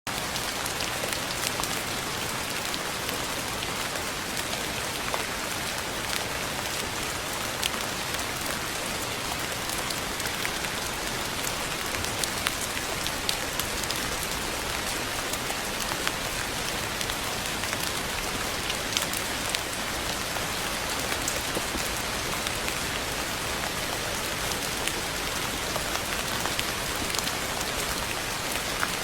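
Steady rain falling on a surface, with many individual drops ticking sharply.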